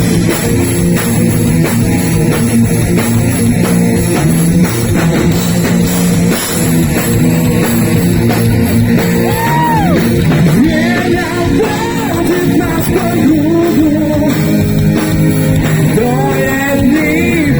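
Live heavy metal band playing loud: distorted guitars and drum kit, with a melodic lead line bending in pitch about ten seconds in and again near the end.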